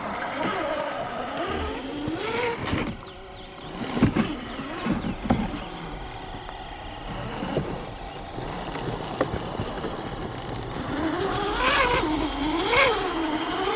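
Electric motors and gear drives of scale RC crawler trucks whining, rising and falling in pitch as the throttle is worked, with a few sharp knocks about four to five seconds in.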